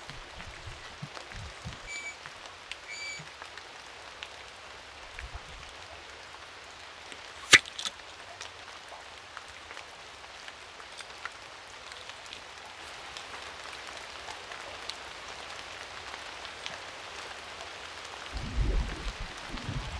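Steady rain falling, an even hiss of drops. A single sharp knock about seven and a half seconds in is the loudest sound; two short high chirps come a few seconds in, and low thumps near the end.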